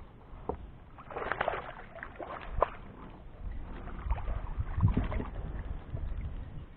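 Water sloshing and splashing around a kayak, with irregular knocks and clicks, as a hooked bass is played from the boat.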